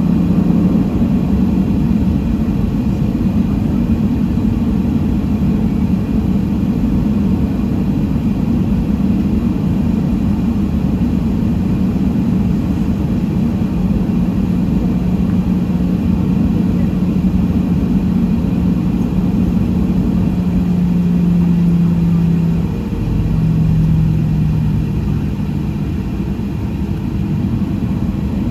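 Boeing 737-700 cabin noise with its CFM56-7B engines running: a loud, steady low rumble with a droning hum. About three quarters of the way through, the hum breaks off and comes back slightly lower.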